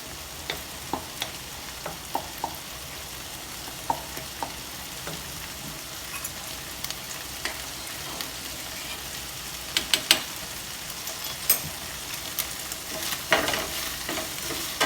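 Chicken pieces frying in olive oil in a pan as they brown: a steady sizzle with scattered clicks and scrapes of a utensil stirring them.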